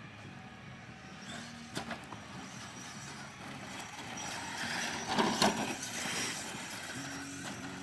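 RC car running, its motor giving a steady low hum, with a sharp click about two seconds in and a loud rough burst of noise about five seconds in.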